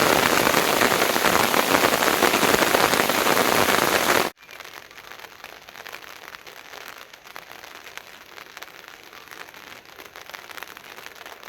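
Heavy rain falling in a dense, steady hiss. About four seconds in it cuts off abruptly to a much fainter patter of rain.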